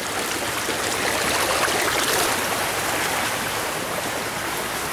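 Floodwater of a storm-swollen creek rushing steadily.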